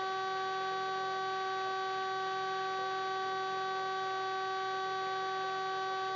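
Steady, unchanging hum with several even overtones over a faint hiss, as heard on a police helicopter's intercom and radio audio between transmissions.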